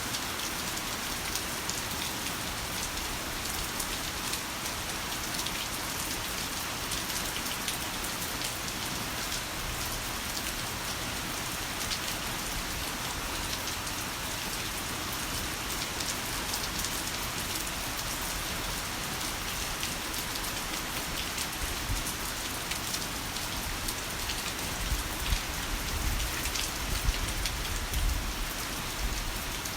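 Heavy rain falling steadily, a dense hiss of drops hitting a surface. Near the end there is a low rumble of thunder with a few louder knocks.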